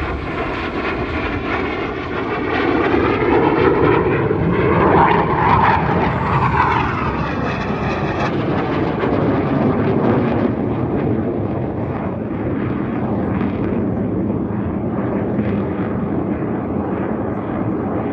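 BAE Hawk jet trainers making low display passes, their Adour turbofans rising to a loud peak about four to six seconds in with a sweeping, falling pitch, then settling into a steady jet rumble.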